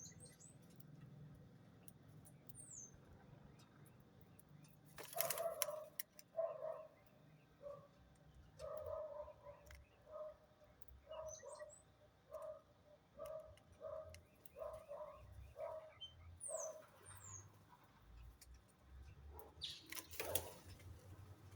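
Birds calling: a run of short, repeated pitched calls, about one or two a second, over a few thin high chirps, with two brief loud rustling noises, one about five seconds in and one near the end.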